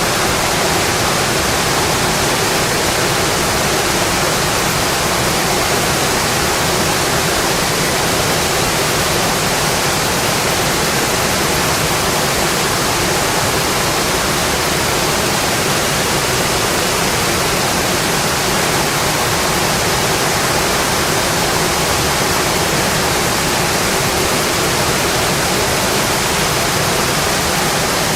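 Steady rainfall, an even, unbroken hiss with no distinct drops, thunder or other events.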